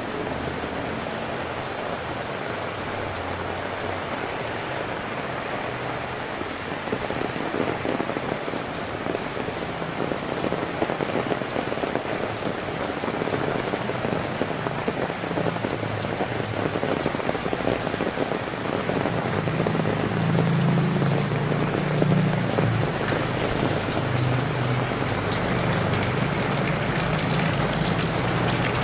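Heavy rain pattering steadily, with a low rumble building in the last third, typical of a vehicle's engine drawing near.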